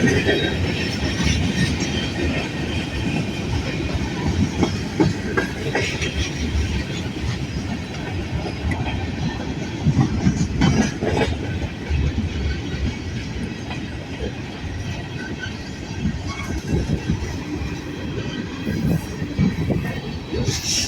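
A long freight train's cars rolling past, their wheels clacking over the rail joints in a steady rumble with frequent irregular knocks.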